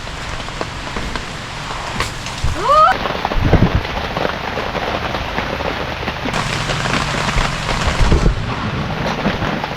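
Heavy rain falling steadily, with low thuds or rumbles about three and a half seconds in and again near the eight-second mark.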